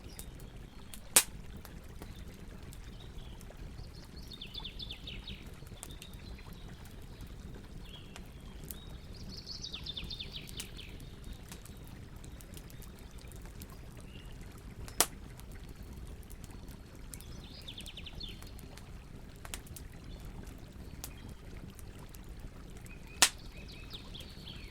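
Campfire burning with a low steady rush and scattered small crackles, broken by three sharp, loud pops: about a second in, around the middle and near the end. A songbird sings four short trills of rapid repeated high notes over it.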